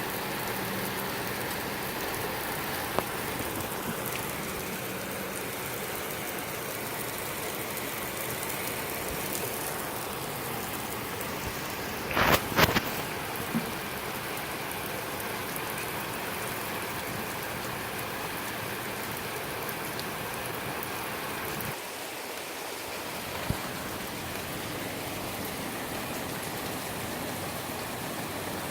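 Heavy rain falling steadily, an even hiss. A short cluster of sharp knocks stands out about twelve seconds in, with a few single clicks elsewhere.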